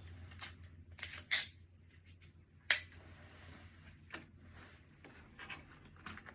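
Handling noise from putting a gift basket together: a few sharp clicks and short rustling bursts, the loudest about a second in and another sharp click shortly after, over a low steady hum.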